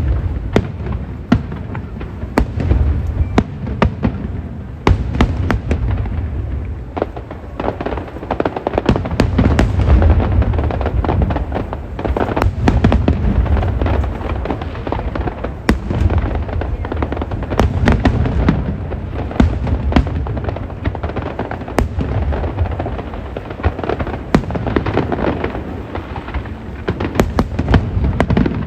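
Aerial fireworks bursting in quick succession: many sharp cracks over a continuous low rumble that swells and eases every few seconds.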